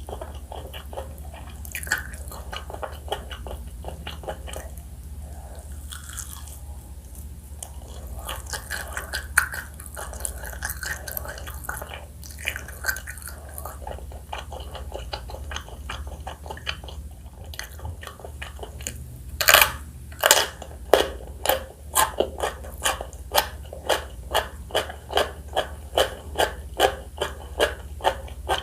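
Close-miked chewing of crispy fried chicken: wet mouth clicks and smacks, then from about two-thirds through, loud crunchy chews in a steady rhythm of about two a second. A steady low hum runs underneath.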